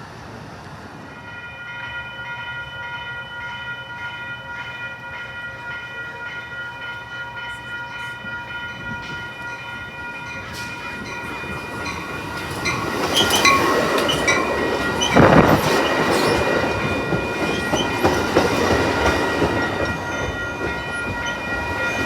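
A train approaching and passing close by: its rumble and wheel noise swell about twelve seconds in and are loudest near fifteen seconds. Through it runs a steady ringing of several high tones that starts about a second in.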